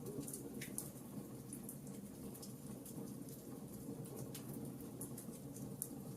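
Wood fire crackling, with scattered sharp pops at irregular moments over a steady low rumble.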